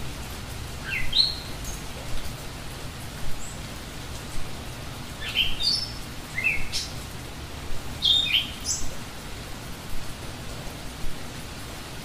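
Steady rain with a songbird singing short rising chirps in three bursts: about a second in, around five to seven seconds in, and around eight seconds in.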